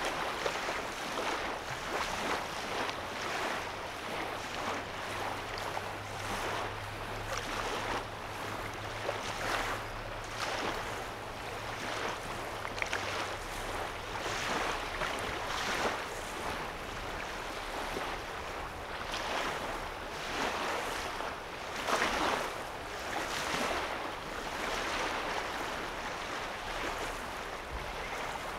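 Small waves lapping on a lake shore, with irregular soft splashes every second or two. A faint low hum sits underneath during the first half.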